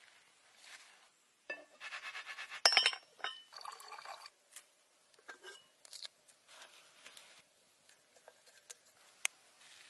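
Irregular clinks and knocks of small hard objects being handled, with short ringing tones. The busiest, loudest stretch comes in the first half, and scattered small ticks and rustles follow.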